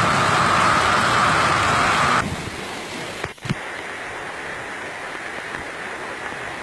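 Heavy rain pouring down, a dense steady hiss of downpour. It is loudest at first, then drops suddenly about two seconds in to a softer, steady rain hiss.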